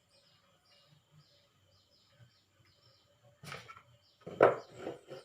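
Small birds chirping over and over in the background, with a faint steady high tone. About three and a half seconds in come two louder bursts of handling noise, the second and louder one near the end.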